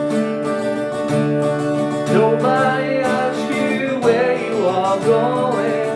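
Acoustic guitar strummed and picked, with a male voice singing a melody that comes in about two seconds in.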